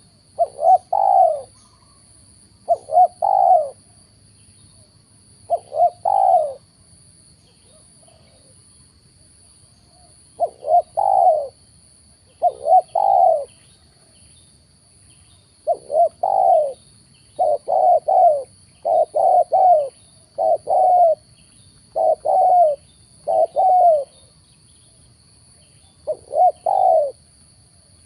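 Spotted dove (tekukur) cooing: repeated short phrases of two or three notes, coming every one to two seconds. A faint steady high-pitched tone runs behind.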